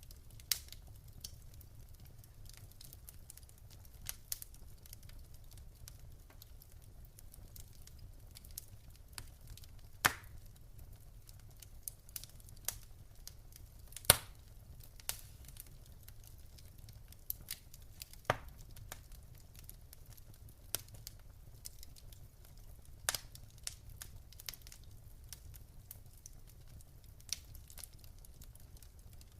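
Wood fire in a fireplace crackling, with irregular sharp pops and snaps over a low steady rumble; the loudest pops come about ten and fourteen seconds in.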